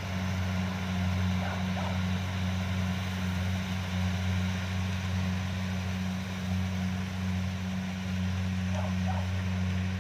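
Kubota DC-70 combine harvester running steadily, a constant low drone from its diesel engine and threshing machinery. A few faint short calls sound over it, once about one and a half seconds in and again near the end.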